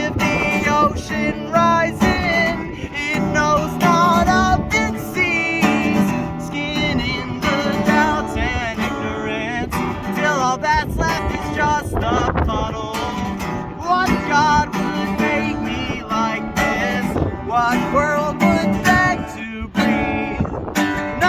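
Acoustic guitar strummed and picked through a song's passage, with a wavering melody line above the chords.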